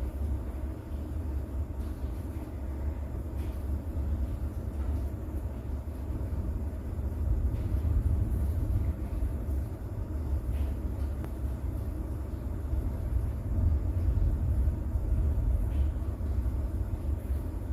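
Distant thunder rumbling low and continuously under light rain, swelling twice, with faint scattered raindrop ticks.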